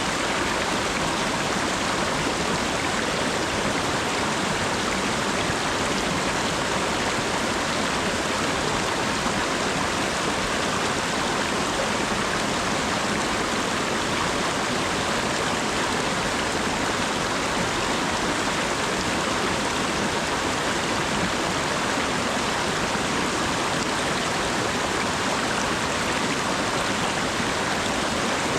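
Steady rain falling, an even hiss with no let-up and no separate drops standing out.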